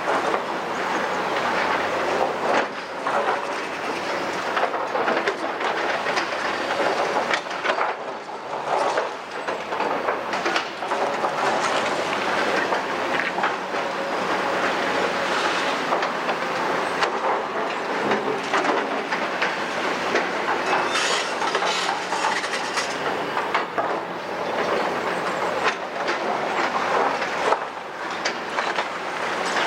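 Caterpillar 345D tracked excavator working demolition rubble: the engine runs under a continuous clatter and scrape of broken debris, dense with knocks throughout.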